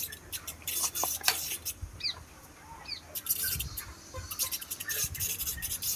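Chickens at a poultry farm: scattered short chirps and clucks over many quick clicks and scratching noises.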